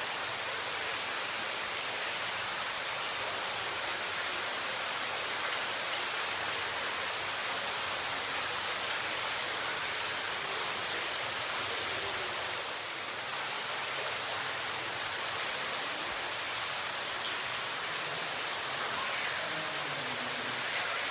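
Water running and falling inside a limestone cave, a steady hiss like heavy rain from water streaming off the cave ceiling and flowing along an underground stream. It dips briefly about two-thirds of the way through.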